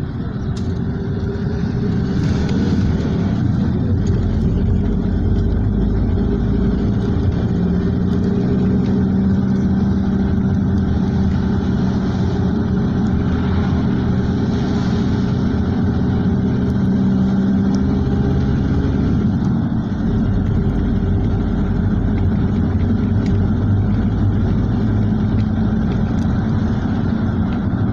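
A motor vehicle running steadily, a continuous low engine hum with road noise, its pitch shifting slightly a few times.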